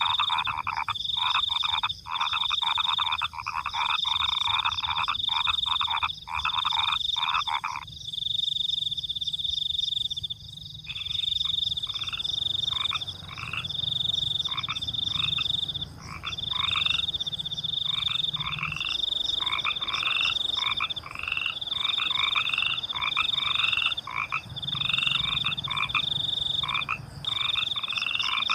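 A night chorus of frogs croaking in dense, rapid pulses, with crickets keeping up a high, chirping trill over it. About eight seconds in, the frogs stop for about three seconds while the crickets carry on, then the frogs start calling again in shorter, separate croaks.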